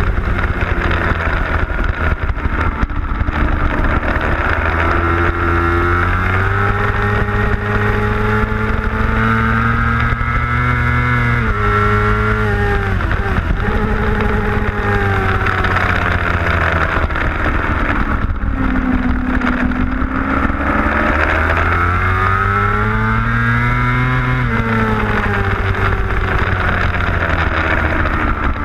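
600cc superbike engine at racing speed, heard from on board: the pitch climbs as it accelerates, then falls sharply on braking and downshifts, several times over. A steady rush of wind over the microphone runs underneath.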